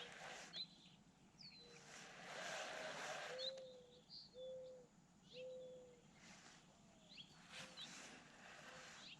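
Faint birdsong: scattered short, high chirps, and three low, even-pitched notes in the middle. It comes over a few soft swells of hiss.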